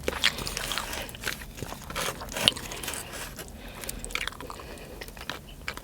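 A person chewing a mouthful of sushi, with small irregular mouth clicks and smacks.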